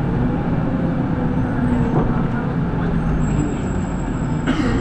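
Inside a city bus on the move: steady engine hum and road noise, with a brief hiss of air about four and a half seconds in.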